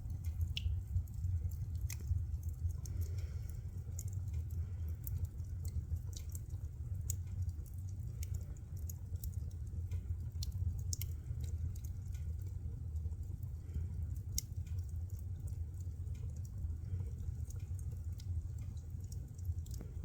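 Firewood burning: crackling with irregular sharp pops and snaps over a low steady rumble.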